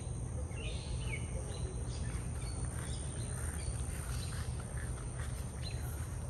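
Birds chirping in short, scattered calls, some falling in pitch, over a steady low rumble.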